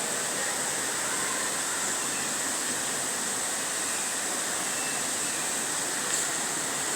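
Steady rushing background noise with a constant high hiss, unchanging in level, with one faint tick about six seconds in.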